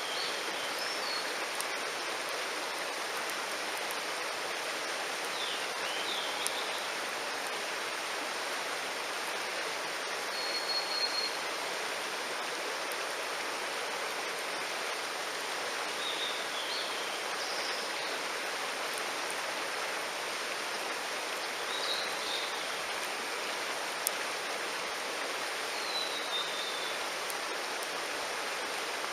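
Mountain stream running steadily, with short high chirping calls over it every few seconds and a single sharp tick near the end.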